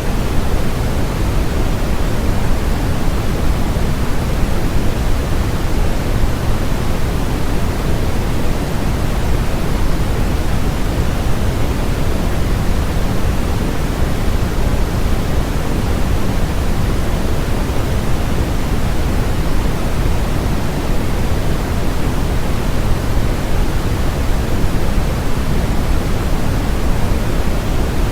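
Continuous electronically generated noise, sold as white noise, even and unchanging, with more weight in the low end than in the high hiss, like pink noise.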